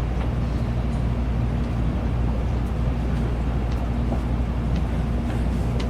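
Steady low rumble and hum of a Tokaido Shinkansen Nozomi train running at speed, heard from inside the passenger cabin, with a few faint ticks.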